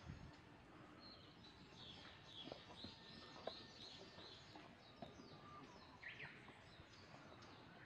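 Faint birdsong over quiet outdoor background noise: a run of repeated high chirping notes for a few seconds, then a single lower call later on.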